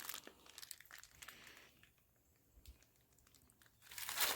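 Faint crinkling and rustling of packaging being handled in the first second and a half, then near silence, with handling noise returning near the end.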